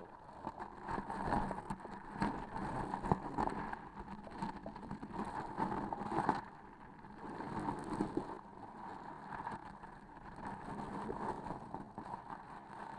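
Close-miked sticky crackling and squishing as a transparent sticky object is pressed and handled, swelling and easing every second or two.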